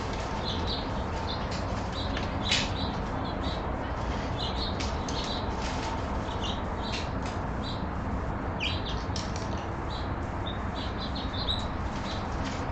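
Birds chirping in many short, high calls over a steady background hiss, with one sharper, louder call about two and a half seconds in.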